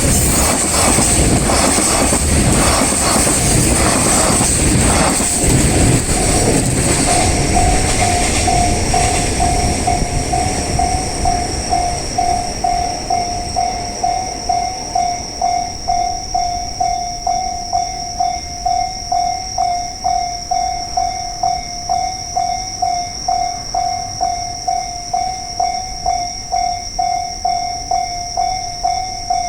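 A train passes over a Japanese railway level crossing, its wheels rattling over the rails for the first several seconds. Then the crossing's electronic warning bell is left ringing in an even kan-kan rhythm of about two dings a second, with a steady high tone alongside.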